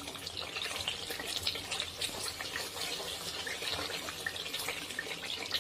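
Onion-tomato masala sizzling with a steady fine crackle in oil in a metal kadhai as a spatula stirs it. The oil has separated out and risen to the top, the sign that the masala is fully fried.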